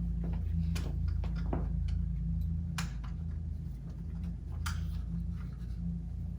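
Scattered light clicks and taps, louder about three seconds in and again near the end, over a steady low hum.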